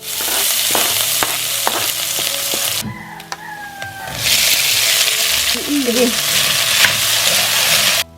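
Food sizzling loudly in two stretches, with a brief lull about three seconds in. Background music plays underneath.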